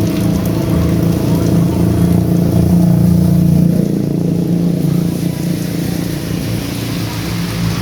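A motor vehicle's engine running close by on the street, its low hum steady for about four seconds and then easing a little, over the hiss of heavy rain.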